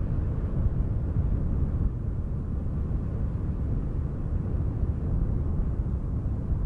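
Steady, deep wind noise with no other distinct sounds.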